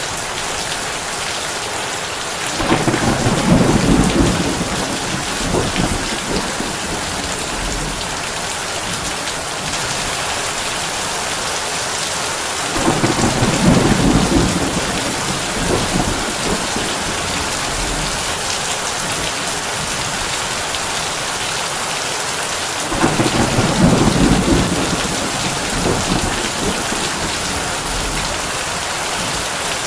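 Heavy rain on a tin roof, a steady hiss, with three low rolls of thunder about ten seconds apart, each rumbling for a few seconds.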